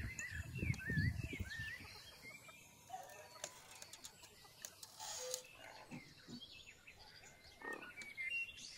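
Quiet outdoor ambience with small birds chirping: quick zigzag chirps in the first couple of seconds and again near the end. Faint scattered clicks and knocks come through in between.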